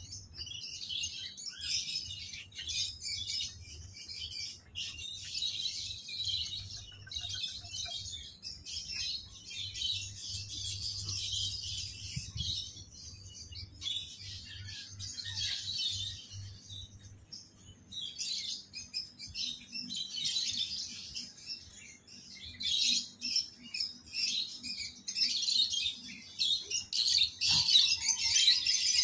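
Many small caged birds chirping continuously, budgerigars among them, growing louder near the end. A faint low hum lies underneath for much of it.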